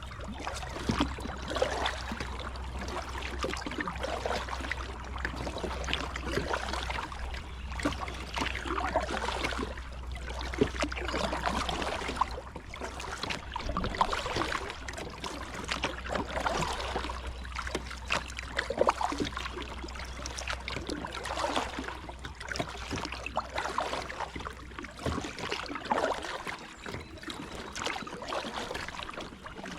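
Kayak paddling on a fast river: irregular water splashes and drips from the paddle every second or two, over the moving water around the hull.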